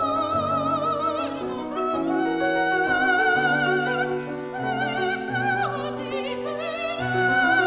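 Classical soprano singing long held notes with wide vibrato, accompanied by piano. The vocal line steps up about two seconds in, slides down about two-thirds of the way through, and rises again near the end.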